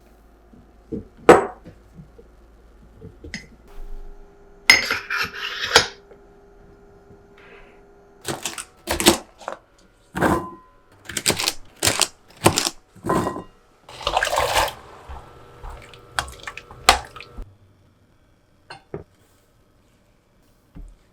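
Kitchenware being handled: a string of sharp clinks and knocks of dishes, pans and utensils, with two brief noisy rushes in between.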